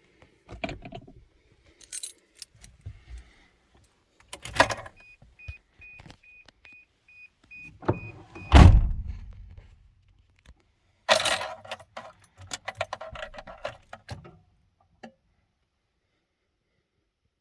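A bunch of keys jangling while the driver gets into a 1986 Toyota Land Cruiser HJ60. A warning chime beeps about twice a second and stops as the door shuts with a heavy thud more than halfway in. More key jangling follows as the key goes toward the ignition, just before the cold start.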